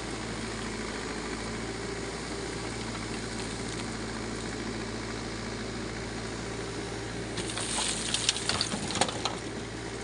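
Backhoe loader's diesel engine running steadily. About three-quarters of the way through comes a short burst of sharp knocks and scraping, the loudest sound here.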